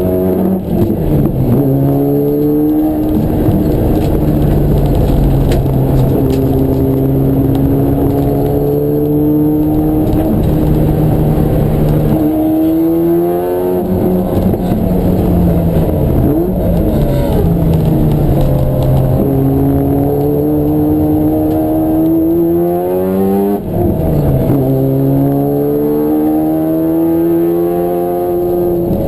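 Racing car engine under load, its pitch climbing slowly through long stretches and falling sharply with quick blips three times, as it slows and changes down for corners.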